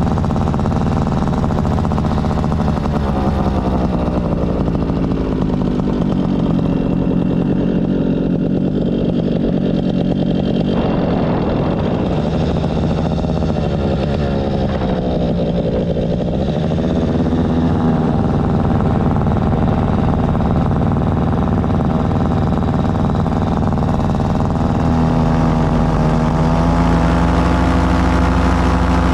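Air Conception Nitro 200 paramotor's two-stroke engine running continuously in flight, its pitch sagging and rising with the throttle through the middle, then throttled up and running louder and steadier for the last few seconds.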